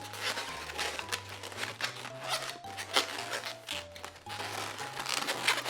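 Latex modelling balloons rubbing and squeaking in short scratchy bursts as one is pushed in among the twists of another, over background music with a steady bass line.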